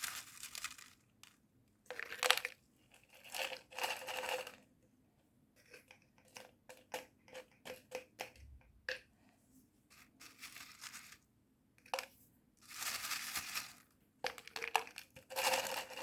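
Large-grain orchid stones being dropped and poured into a small plastic container, clicking one by one in places and rattling in gritty bursts in others, as a drainage layer for a terrarium.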